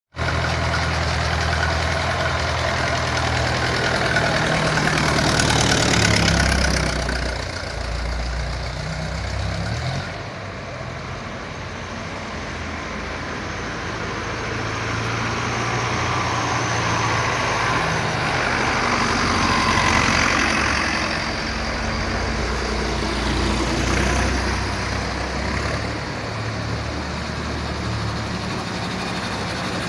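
Tractor engine running as it drives past, its pitch shifting. It is loudest about six seconds in and again around twenty seconds in.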